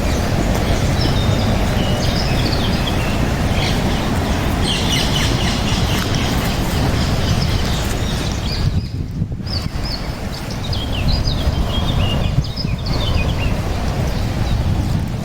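Small birds chirping and calling over a steady low rumble of wind on the microphone.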